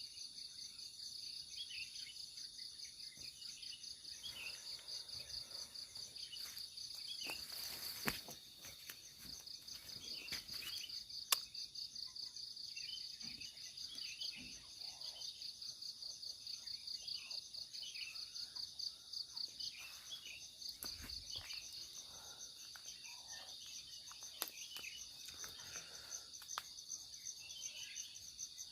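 Forest insects shrilling in a steady, finely pulsing high chorus, with scattered bird chirps below it. Two sharp clicks come about a third of the way in.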